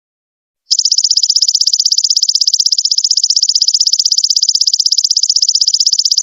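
Belalang emas (golden locust) insect calling: a loud, high-pitched, rapidly pulsing trill that starts about a second in and stops abruptly near the end.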